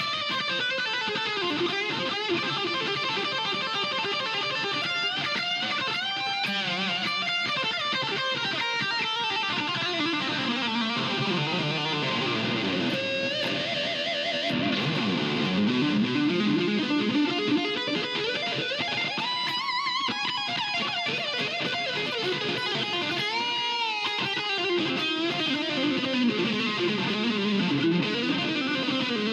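Electric guitar played through a Yamaha THR10X amp on a scooped-mid, metal lead tone, playing riffs and lead lines with string bends and vibrato.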